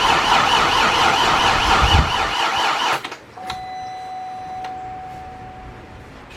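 Car alarm siren warbling rapidly up and down, cutting off suddenly about three seconds in. A steady electronic beep tone follows for about two and a half seconds.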